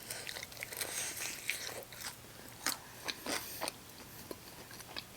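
A person biting and chewing chicken wings, a run of short clicks and crackles that thins out after about four seconds.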